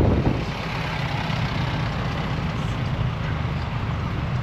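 Steady low engine and road rumble of a vehicle being driven.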